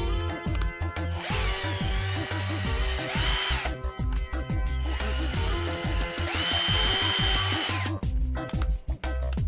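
Small cordless drill motor running twice for a few seconds each time, its whine stepping up in speed partway through each run, over background music with a steady beat.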